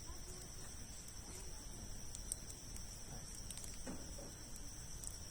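Campfire of large logs crackling with scattered sharp pops, over a steady high-pitched insect drone.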